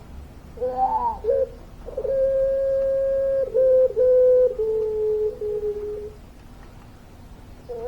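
Puter pelung dove calling: a short tumbling burst of notes, then one long drawn-out coo held for about four seconds, stepping down in pitch as it goes. A new call begins at the very end.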